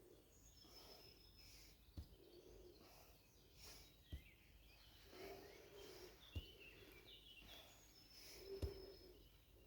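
Kettlebell striking the stomach for body conditioning, four dull thuds about two seconds apart, each with a short breath out. Birds chirp faintly in the background.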